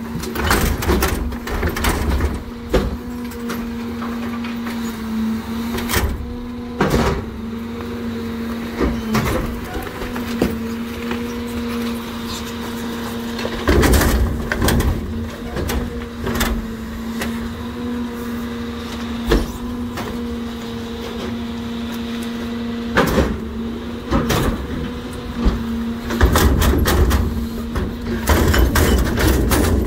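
NewWay rear loader garbage truck running with a steady hum, with repeated bangs and clatters from the trash and hopper as it loads heavy trash. It gets louder and busier about halfway through and again near the end.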